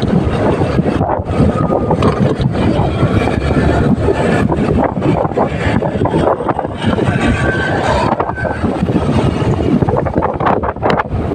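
Wind rumbling and buffeting on the microphone during a motorcycle ride, with the bike's engine and road noise underneath.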